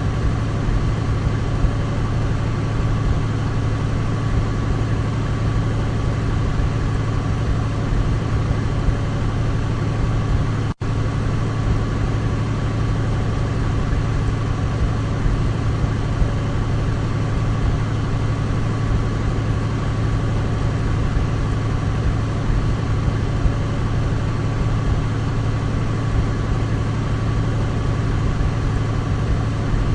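Douglas DC-3's radial piston engines running at a steady, even drone. The sound cuts out for an instant about eleven seconds in, then carries on unchanged.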